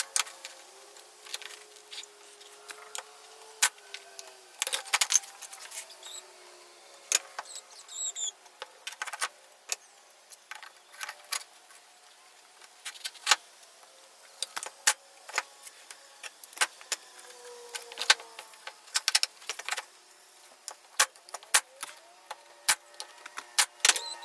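Irregular clicks and knocks of black walnut boards being handled, set down and butted against each other, some in quick clusters, over faint steady background tones.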